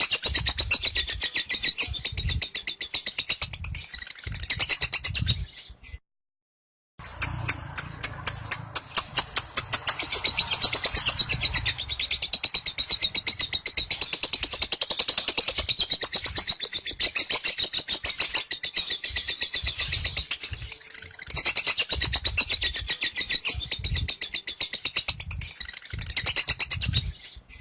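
Lovebird singing its 'ngekek' song: a long, unbroken, very rapid chattering trill, high-pitched, that cuts out for about a second some six seconds in and then carries on.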